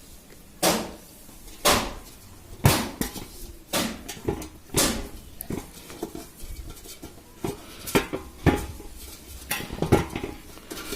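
A metal water pot being handled while its holes are patched with epoxy putty, giving irregular clinks and knocks, about ten in all, some with a short ring.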